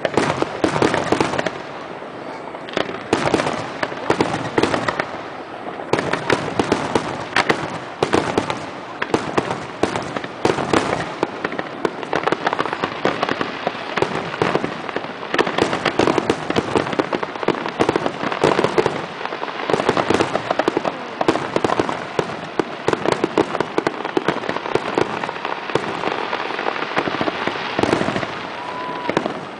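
Fireworks finale: aerial shells bursting in a rapid, continuous barrage of bangs and crackles, with no gaps between the reports.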